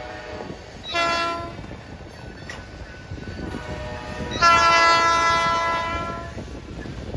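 Amtrak locomotive air horn sounding a short blast about a second in, then a long blast from about four and a half seconds, over the steady rumble of the train running on the rails. The short-then-long pattern, following a long blast just before, fits the end of the long-long-short-long grade-crossing signal.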